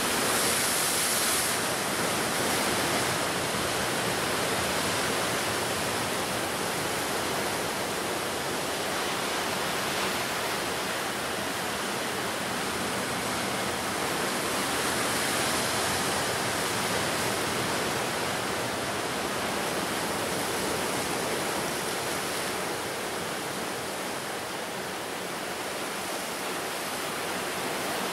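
Ocean surf breaking and washing on the shore: a steady rush that swells and eases slowly over several seconds.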